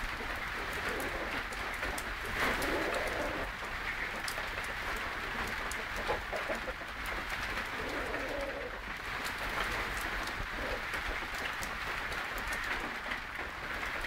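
Birds calling: a few low calls, each about a second long, over a steady high hiss.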